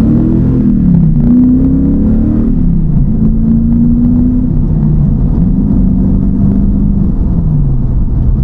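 TVR Chimaera's 4650cc V8, fitted with a race cam and with its precats removed, pulling on the road. Its revs rise and fall several times, then settle to a steady pitch near the end.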